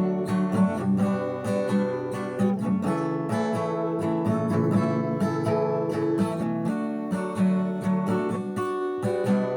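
Acoustic guitar strummed and picked through a C, F and G chord progression, with a capo on the second fret.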